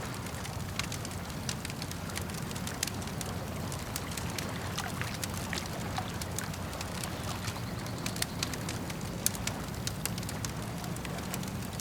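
Campfire crackling, with frequent sharp, irregular pops over a steady low rumble of flames and lapping lake water.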